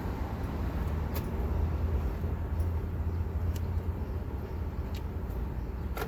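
Steady low rumble of a car's engine heard from inside the vehicle, with a few faint clicks.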